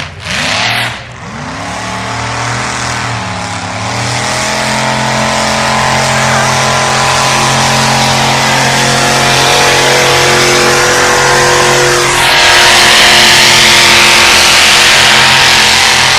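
Loud tractor-pull tractor engine running hard, its pitch dipping early on and then holding steady as it builds, with a louder rush of noise about twelve seconds in.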